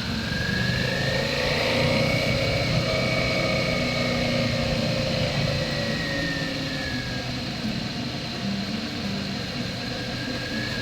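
Motorcycle engine running under way, its pitch rising over the first couple of seconds and then slowly falling.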